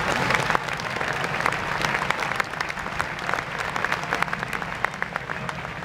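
Audience applauding: many scattered hand claps, easing a little after the first moment.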